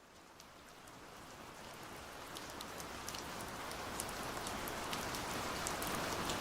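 Heavy rain pouring steadily, fading in from quiet and growing louder throughout, with sharp hits of individual drops scattered through the steady hiss.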